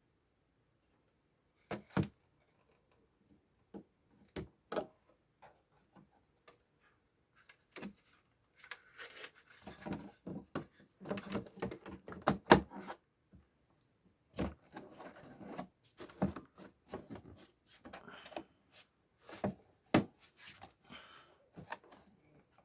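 Irregular clicks, knocks and scraping of television parts being handled and fitted together, with denser stretches of rubbing and rattling about ten seconds in and again in the second half.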